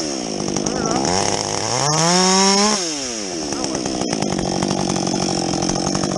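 Husqvarna 562XP two-stroke chainsaw with a modified muffler: the engine drops from high revs to idle, revs up once from about a second in to nearly three seconds, falls back, and then idles steadily.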